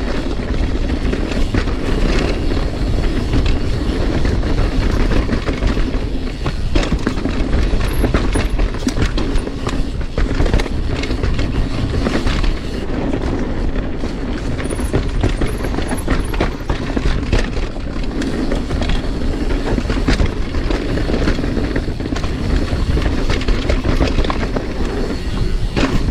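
Mountain bike riding down a dirt trail: a continuous rumble of tyres over the ground with the chain and frame rattling and clicking over bumps.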